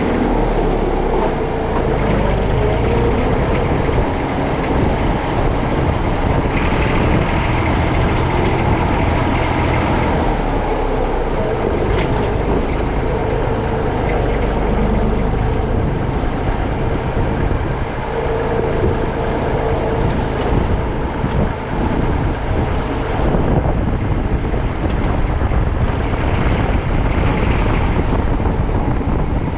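Massey Ferguson 35X tractor engine running steadily as the tractor is driven.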